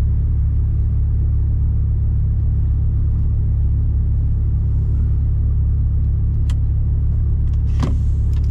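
Steady low rumble of a Mercedes Actros truck's engine idling, heard from inside the cab, with a few light clicks about six to eight seconds in.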